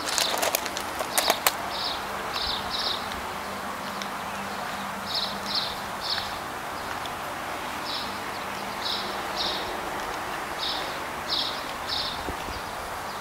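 Small birds chirping outdoors: short high notes in twos and threes, repeating every second or two over a steady background hiss. A few sharp clicks in the first second and a half.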